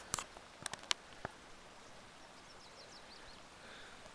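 A few sharp clicks in the first second or so, then a quick run of high, thin chirps from a small bird around the middle, over faint outdoor background.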